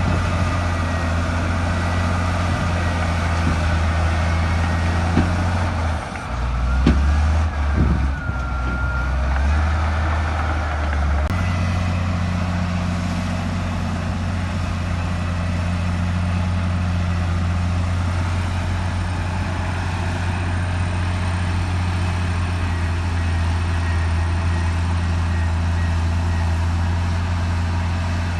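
Heavy earthmoving machine's diesel engine running steadily under load. Between about six and eleven seconds in, its note drops and shifts, with a couple of clanks.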